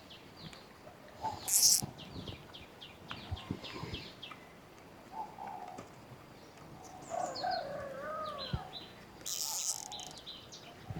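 Birds chirping in quick runs of short, falling calls, with two brief loud rustles, the first a little under two seconds in and the second near the end.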